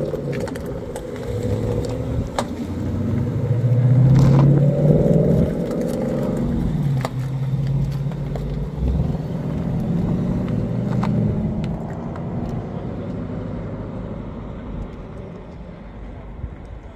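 Ford Mustang 5.0 V8 engines pulling away up a mountain road. The engine note is loudest about four to five seconds in and then fades into the distance. A few sharp clicks stand apart from it.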